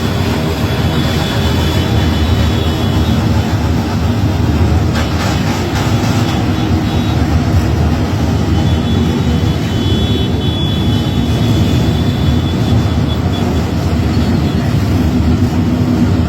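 Many motorcycles passing in a continuous stream, their engines running together in a steady, loud din.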